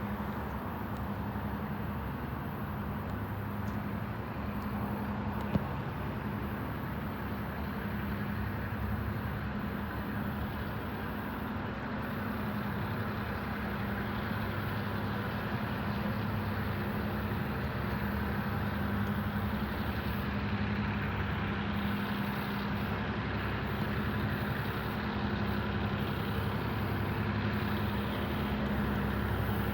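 EMD diesel engines of a set of four LIRR MP15AC switcher locomotives working at full throttle (Notch 8), a steady deep drone that grows slowly louder. A single sharp click sounds about five and a half seconds in.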